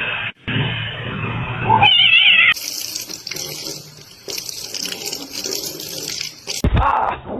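Water running steadily, as from a tap, in the middle of the clip, after a brief high wavering cry.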